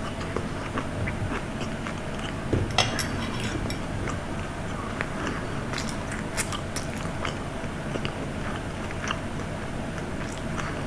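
Close-miked chewing and mouth sounds of a person eating, with many small scattered clicks over a steady low hum.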